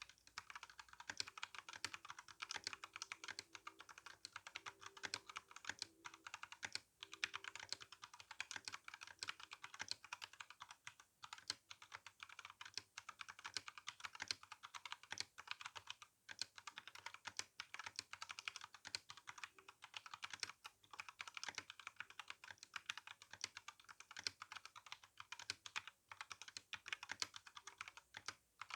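Continuous fast typing on an RK61 mechanical keyboard with tactile brown switches and GSA keycaps: a dense run of light keystroke clacks, broken by a few brief pauses.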